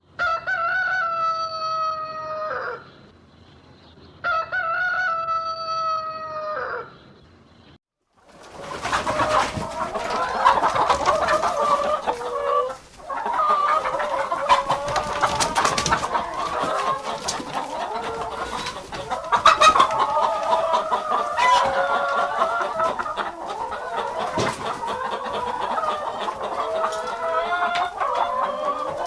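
A rooster crows twice, two long drawn-out calls that fall off at the end. Then a flock of chickens starts up, with continuous overlapping clucking and squawking.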